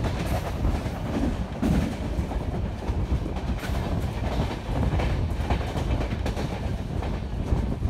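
Indian Railways Jan Shatabdi Express coach running at full speed, heard from its open doorway: a steady rumble of wheels on rail with scattered clacks over the rail joints.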